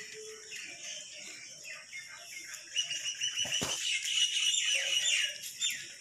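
Small birds chirping and calling, with repeated quick falling notes and a high trill that gets louder in the second half. A single dull thump a little past halfway.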